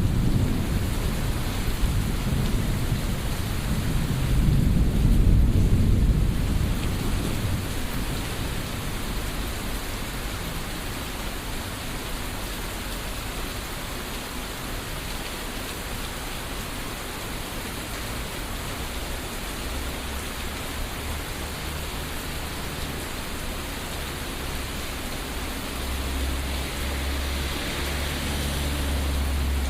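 Thunderstorm: steady rain falling, with rolling thunder rumbling low. The thunder is loudest in the first several seconds, fades, then builds again near the end.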